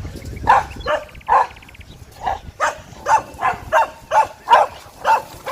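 A dog barking over and over in quick short barks, about two to three a second, with a faint brief buzz between them about a second in.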